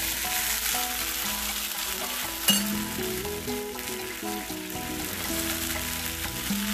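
Chopped onion, garlic and tomato frying in oil in a nonstick skillet, sizzling steadily while a wooden spatula stirs through them, with one sharp knock about two and a half seconds in.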